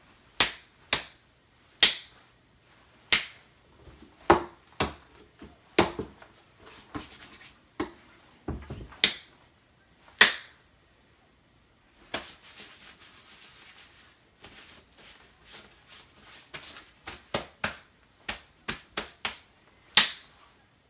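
Foley punches made by punching a fist into an open hand: a series of sharp, unevenly spaced smacks, with a stretch of soft rustling about twelve seconds in.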